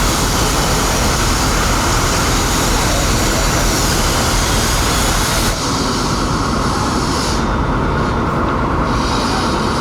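Loud, steady engine and machinery noise at a fire scene, with a hiss over it that drops away sharply about five and a half seconds in while the low rumble goes on.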